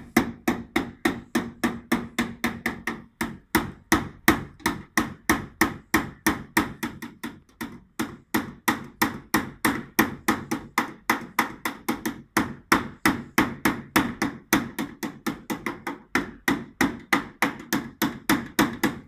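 A hammer beating out dents in a car's sheet-metal body panel, with steady, evenly spaced blows at about three a second.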